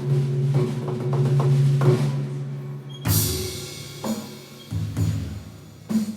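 Electronic timpani sound played in a rhythmic jam: deep pitched drum rolls and strikes, with a bright crash about three seconds in.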